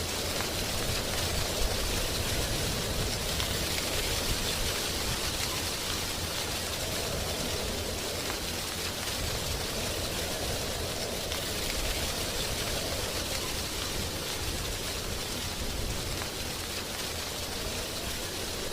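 Wind blowing through a tree's leaves, a steady rustling hiss that swells and eases gently.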